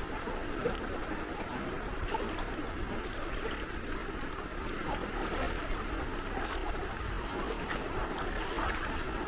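Gentle sea waves lapping and washing at the shore, a steady, even wash of water.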